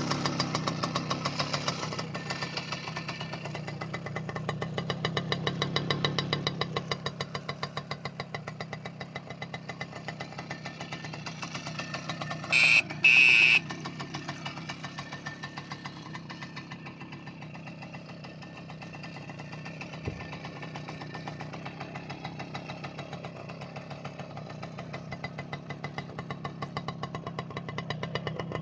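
Soviet Delta moped's single-cylinder two-stroke engine, fitted with a 39.5 mm Honda Dio piston, idling. Its revs rise for a few seconds near the start, then settle back to a steady idle, which the owner calls perfect running. About halfway through come two short, loud, high beeps.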